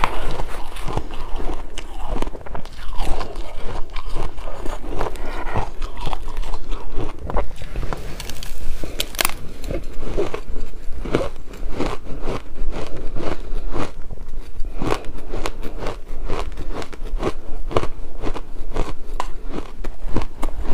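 Close-up chewing of shaved ice: a steady, dense run of crisp crunches and crackles, several a second, with no pauses.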